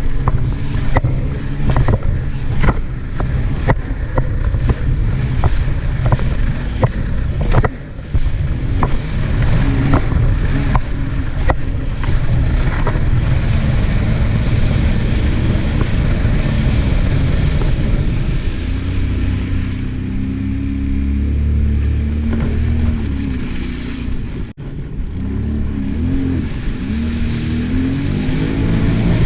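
Jet ski engine running on the water, its pitch rising and falling with the throttle in the second half, with repeated sharp knocks in the first half as the hull slaps over waves, and wind on the microphone.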